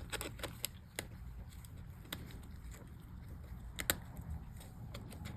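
Scattered light plastic clicks of a MacBook key cap and keyboard being handled and pressed, the sharpest about four seconds in, over a low steady hum.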